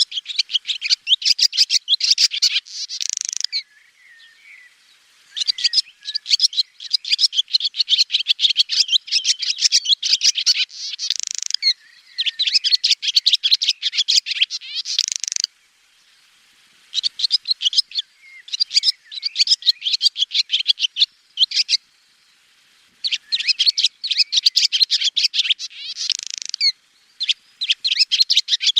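Swallow singing: runs of rapid, high twittering chirps and warbles lasting several seconds each, broken by three short pauses.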